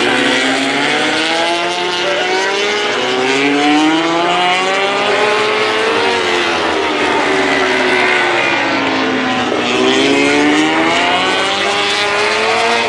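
MotoGP racing motorcycles' 1000cc four-stroke engines running at high revs on track. Several engine notes overlap, their pitch climbing and dropping again and again as the bikes accelerate, change gear and go by.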